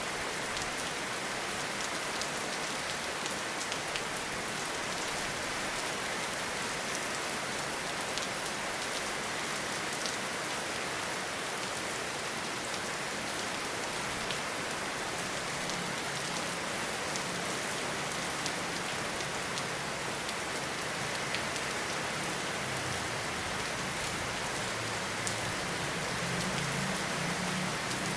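Steady rain falling, a constant hiss with scattered sharper drop hits. A low rumble rises under it in the second half and is strongest near the end.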